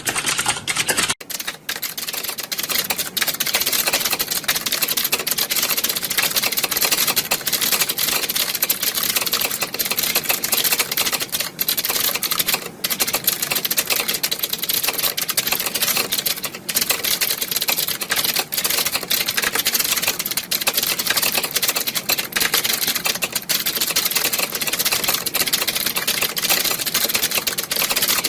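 Many computer keyboards typed on at once, a dense, continuous clatter of overlapping key clicks. About a second in, a low background rumble drops out and only the clatter remains.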